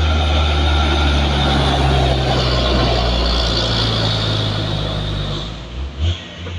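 Heavy truck's diesel engine labouring up a steep climb, a steady deep drone that eases and fades near the end.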